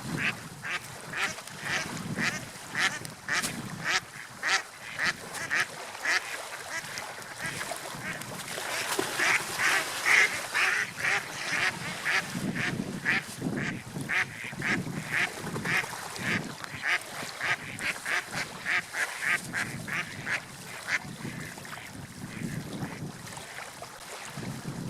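Birds calling in a long run of short, repeated calls, about two to three a second, over a steady background wash. The calls stop a few seconds before the end.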